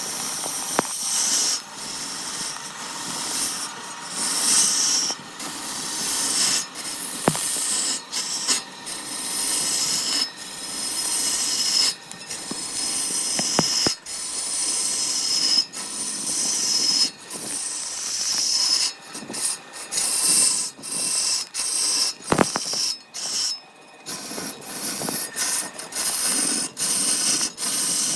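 Wood being worked by hand with an abrasive or cutting tool: repeated rasping, hissing strokes of about a second each with short breaks, and a few sharp clicks.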